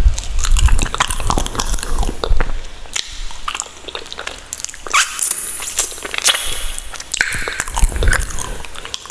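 Close-miked eating mouth sounds: a person biting and chewing food, with many irregular sharp wet clicks and smacks.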